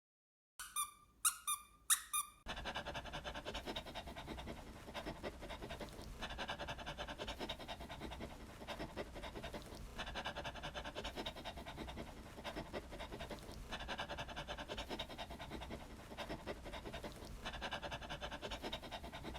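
Three short high-pitched squeaks, then a dog panting steadily, its fast breaths swelling and easing about every two seconds.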